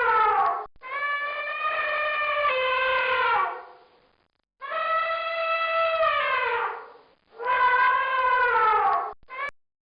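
An animal giving long, drawn-out calls, each one to three seconds, holding a steady pitch and dropping away at the end, about four in a row with short gaps between.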